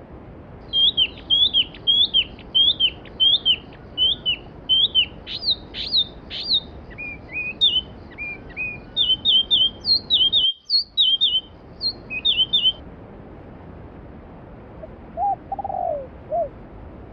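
Stream water rushing steadily under a songbird's rapid, repeated high chirping song. The chirping stops about three-quarters of the way through, and a few lower, falling calls follow near the end.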